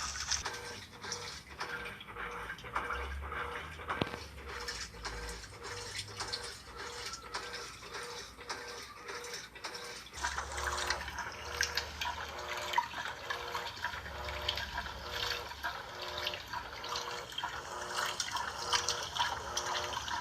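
Washing machine running with water swishing and sloshing in the drum. Under it come uneven low rumbles and a short hum that repeats about twice a second.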